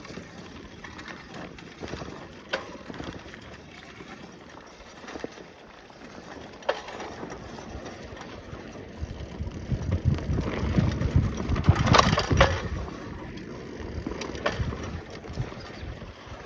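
Bicycle ridden over a rough dirt trail: tyres crunching and the bike rattling, with scattered sharp knocks over bumps. It gets louder and rumbling about two-thirds of the way through, where the hardest knock falls.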